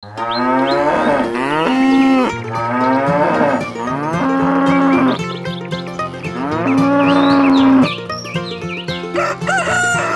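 Cattle mooing: a string of about five long moos, one after another. Short bird chirps can be heard in the second half.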